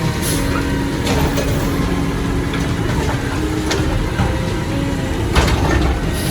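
Garbage truck engine running with a dense low rumble, a steady whine through the first half, and several sharp knocks.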